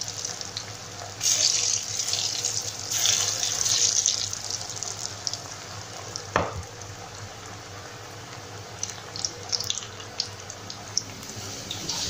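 Batter-coated bitter gourd slices deep-frying in hot oil in a pan: a steady sizzling hiss that comes in louder surges over the first few seconds, with scattered crackles and pops later on. A single knock sounds a little past the middle.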